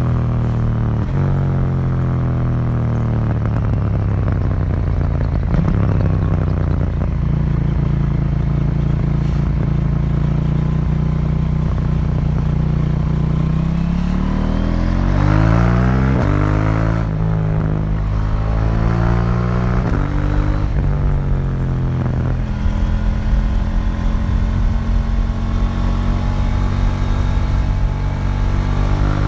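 2018 KTM 790 Duke's parallel-twin engine through its stock exhaust, heard onboard while riding. The engine note falls over the first few seconds and holds steady for a while. About halfway it rises repeatedly, dropping back at each upshift, then settles into a steady cruise.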